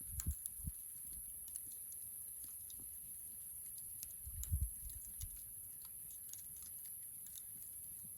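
Wood campfire crackling, with scattered sharp pops and clicks, and a few low thumps near the start and about four and a half seconds in.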